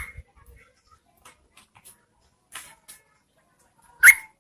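Yellow-vented bulbul calls: scattered faint short chips, then one loud, sharp call note near the end. This is a lure recording of a female's calls meant to draw a male to answer.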